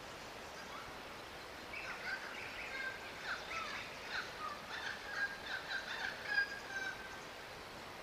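A bird's rapid twittering and chattering calls mixed with short whistled notes, starting about two seconds in and lasting about five seconds.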